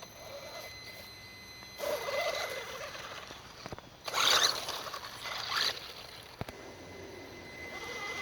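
WLtoys 12428 RC truck driving in two bursts, its electric motor and gears whirring as the tyres churn through wet mud, the second burst the louder.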